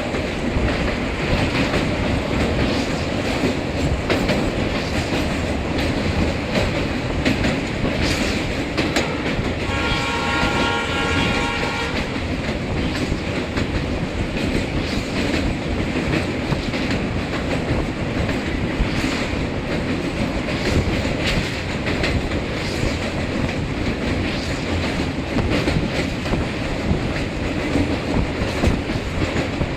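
Train running on the track with a steady, loud rumble. A train horn sounds once for about two seconds, about ten seconds in.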